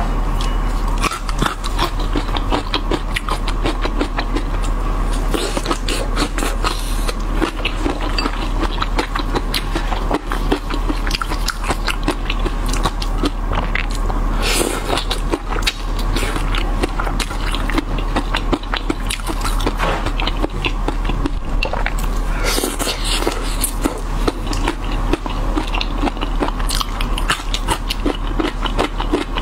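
Close-miked biting and chewing of shrimp in a crumbly chili coating: a continuous run of small crunches and crackles.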